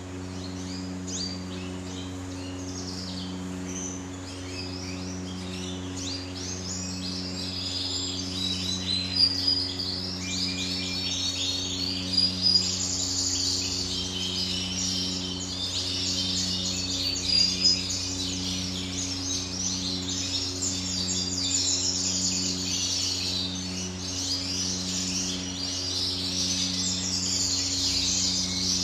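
Many caged canaries chirping and trilling at once, the twittering growing denser about a third of the way in. A steady low hum runs underneath.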